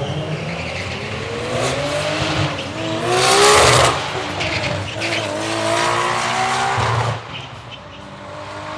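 Race car engine accelerating hard through the gears on a drag strip, its pitch rising, dropping at a shift about four seconds in and rising again. It is loudest about three seconds in and falls away suddenly near the end.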